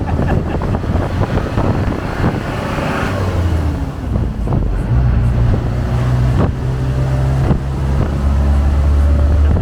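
Open-air taxi riding along: a steady engine hum and road rumble, with wind buffeting the microphone and a few sharp knocks.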